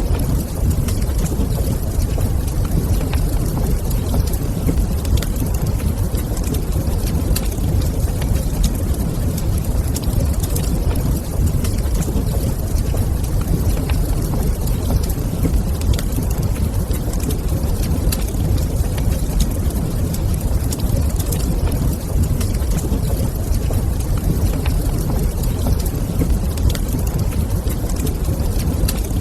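Wood fire in a fireplace crackling, with sharp pops scattered irregularly over a steady low rumble.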